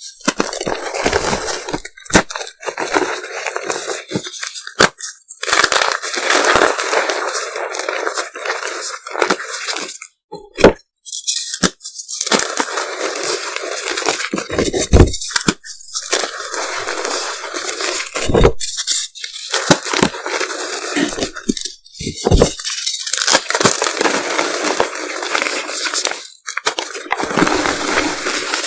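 Reformed gym chalk moulded into M&M shapes being crushed and crumbled, sped up. It comes in repeated bouts of dense crunching a few seconds long with brief pauses between them, and a few sharp cracks as pieces break.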